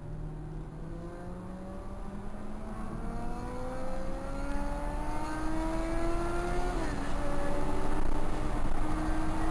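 Car engine accelerating, heard from the driver's seat: its pitch climbs steadily and grows louder, drops briefly at a gear upshift about seven seconds in, then climbs again.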